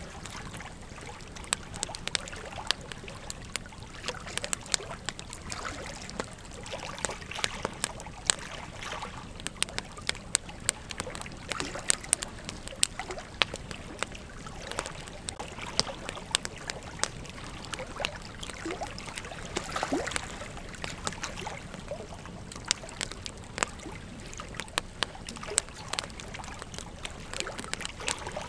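Campfire crackling: burning wood hissing steadily, with frequent irregular sharp pops and snaps.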